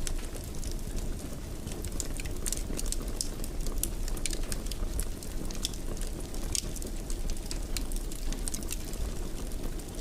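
Wood fire in a fireplace crackling: a steady low rumble of burning with frequent small, sharp pops and snaps scattered irregularly throughout.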